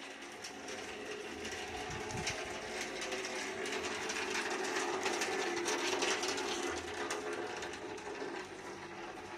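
Rain falling: a dense pattering of many drops, growing louder toward the middle and easing a little near the end.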